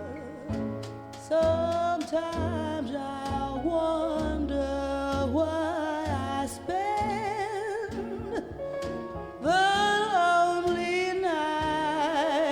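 Recorded jazz vocal: a woman singing long notes with wide vibrato over accompaniment, with louder phrases about a second in and near the end. It is played back through ATC SCM20 loudspeakers and picked up by a microphone in the room.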